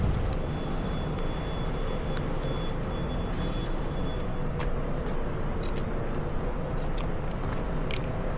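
Kawasaki ZX-4RR's 399 cc inline-four running steadily under road noise, with a few short clicks.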